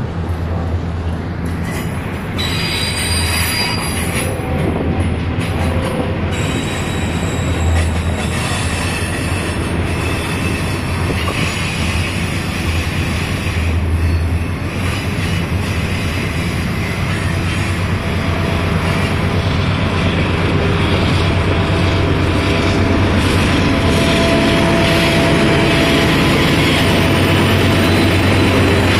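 Union Pacific double-stack intermodal freight cars rolling past in a steady, continuous rumble of wheels on rail. High-pitched wheel squeal comes in a few seconds in.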